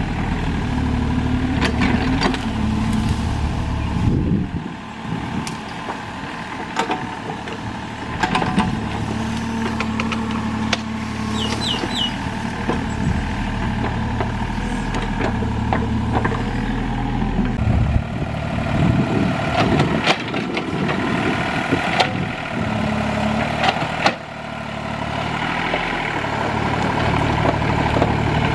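Excavator's diesel engine running under varying load, its drone swelling and easing several times, with scattered sharp clanks and knocks from the machine at work.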